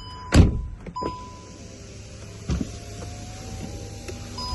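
Volkswagen Golf GTI power window motor running, a faint whine rising slightly in pitch for about three seconds, after a thump about half a second in.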